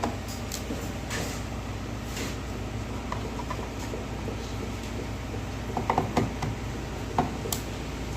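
Screwdriver working the screws out of a plastic LED TV back cover: scattered small clicks and creaks, with a cluster of sharper clicks about six seconds in.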